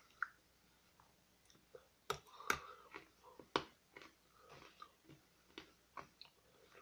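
Hard candy cane being bitten and crunched between the teeth: irregular sharp cracks and chewing clicks, the loudest a cluster about two to two and a half seconds in and another about three and a half seconds in.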